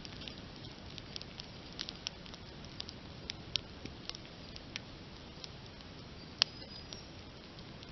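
Open wood campfire crackling: irregular sharp pops and snaps over a low steady rumble, with one much louder pop about six and a half seconds in.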